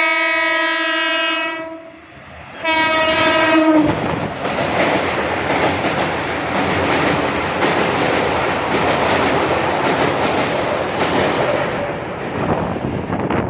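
A local passenger train's horn sounding and cutting off about two seconds in, then a second shorter blast that drops in pitch as it ends. After that the train runs loudly, a steady rattle of wheels on rails.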